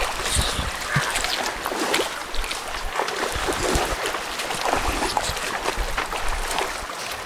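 River water running, with irregular splashing and rippling.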